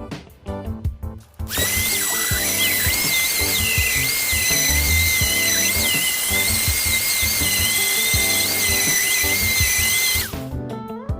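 Handheld electric power sander running on a wooden cricket bat, starting about a second and a half in and stopping near the end. It makes a steady whine, with a higher whine that wavers up and down as it works.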